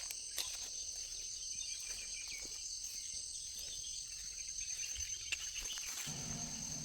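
Steady high-pitched chorus of crickets or similar insects, with a few faint clicks; a low rumble comes in near the end.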